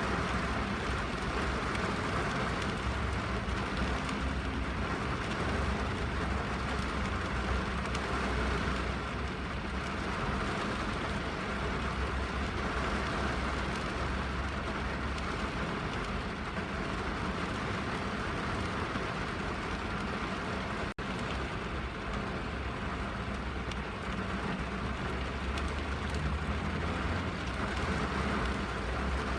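Steady rain drumming on a car's roof and windows, heard from inside the cabin, with a low rumble underneath. The sound drops out for an instant about two-thirds of the way through.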